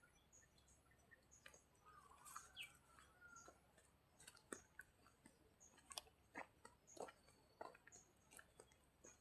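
Faint, uneven soft clicks and taps, one or two a second, with faint high bird chirps behind.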